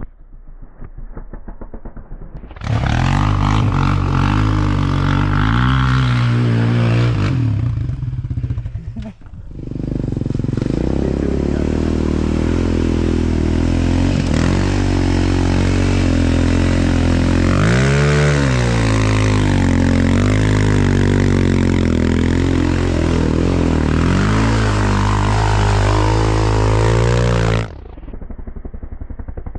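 Off-road vehicle engine, first running low, then revving hard with the pitch rising and falling repeatedly. The sound dips briefly about nine seconds in and cuts off abruptly near the end.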